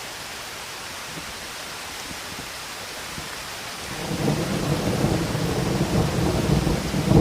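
Steady rain hiss, with a low rumble of thunder rolling in about four seconds in and growing louder.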